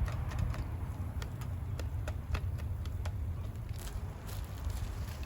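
Pasta and broccoli being worked in a pan over a campfire: irregular light clicks and crackles over a steady low rumble.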